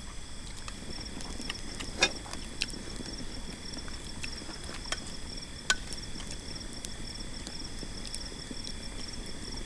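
Crickets chirping in a steady, pulsing high trill, with a few sharp clicks scattered through, the loudest about two seconds in.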